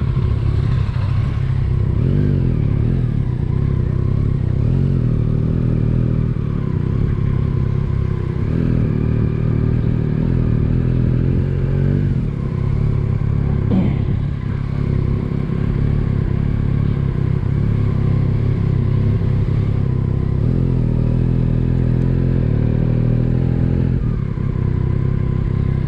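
Motorcycle engine running under way, its pitch rising and falling with throttle and gear changes. A single short click about fourteen seconds in.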